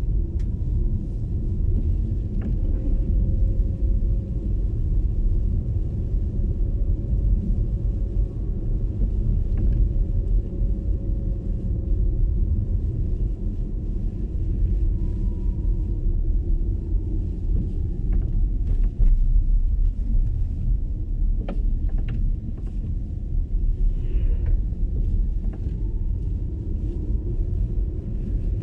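MG ZS EV electric car driving on a snowy road: a steady low rumble of tyres and road, with a faint whine that drifts slowly up and down in pitch and a few light clicks.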